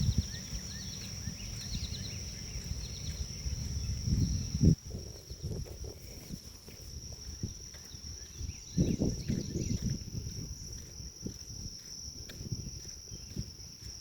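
Insects trilling in a steady high drone, with a bird chirping in short repeated notes during the first few seconds. Low rumbling bursts come and go underneath, loudest about four and nine seconds in.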